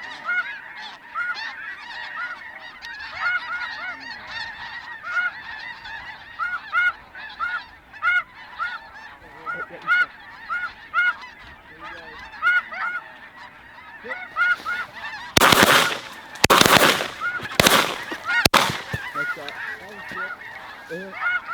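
Snow geese calling: a steady chorus of short, high-pitched honks repeating every half second or so. About fifteen seconds in, a few loud bangs cut across the calling in quick succession.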